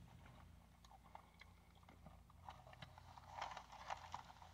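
Near silence over a faint low hum. In the second half come faint clicks and soft noises of chewing and biting into a paper-wrapped pork gyro.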